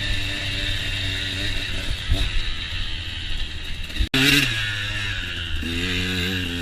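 Motocross dirt bike engine running, heard close through the rider's camera, its note rising and falling with the throttle. The sound drops out for an instant about four seconds in. Near the end the engine revs up and down.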